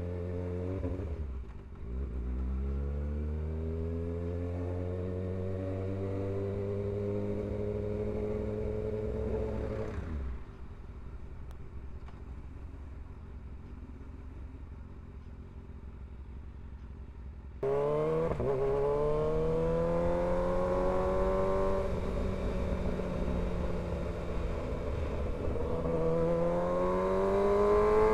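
Kawasaki ZX-6R 636 inline-four engine accelerating, its note rising in pitch through a gear change about a second and a half in. Around ten seconds in it drops back to a quieter low rumble, then revs up again suddenly a little before eighteen seconds and climbs through further gear changes.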